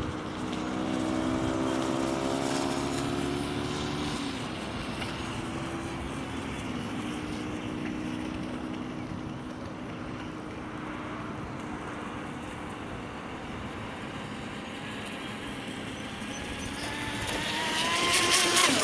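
Electric whine of an RC race boat's brushless outrunner motor running across the water. In the first few seconds the tone fades and drops in pitch as the boat moves away. Near the end the boat comes back close, loud, its whine bending in pitch, with the hiss of the hull cutting the water.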